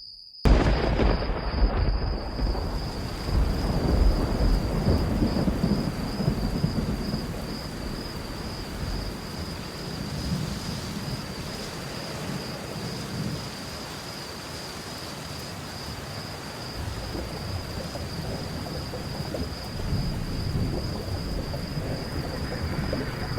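Thunderstorm sound effect: a thunderclap breaks suddenly about half a second in, followed by steady rain hiss with rolling rumbles of thunder that swell again near the end. A steady high tone sits underneath.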